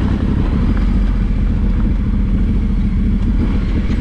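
Yamaha Ténéré 700's parallel-twin engine running steadily under way, with a continuous low rumble.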